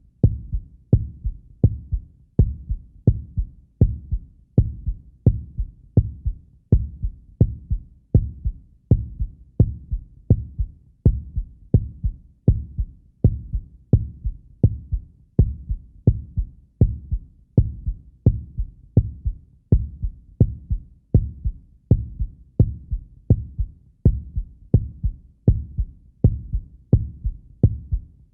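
Heartbeat sound effect for horror: a steady, even rhythm of low thumps, about one and a half a second.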